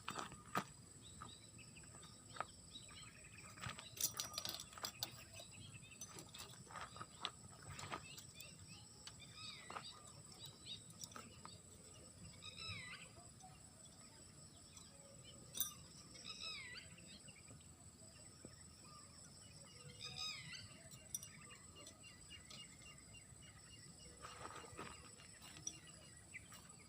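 Faint outdoor sounds: scattered sharp clicks and rustles, and three short bird calls that sweep downward in pitch, about four seconds apart, in the middle stretch.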